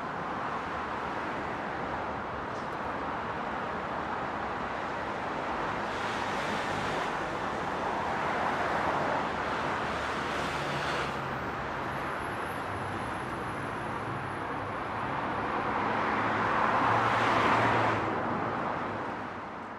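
Motorcycle on the move: steady wind and road noise with a faint low engine hum, swelling near the end and then fading out.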